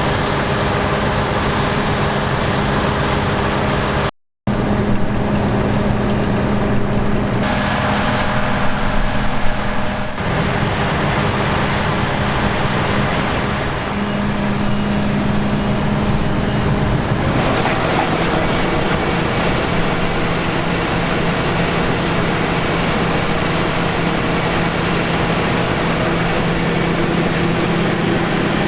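Heavy Claas harvest machinery running steadily at work, with a deep engine tone under a broad mechanical rush. The sound changes character several times, with a brief dropout about four seconds in, as it shifts between different machines.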